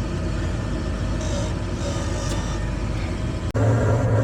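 Gas furnace running, with the steady hum and rush of its inducer fan and burners. About three and a half seconds in the sound cuts out sharply and a louder, deeper hum takes over.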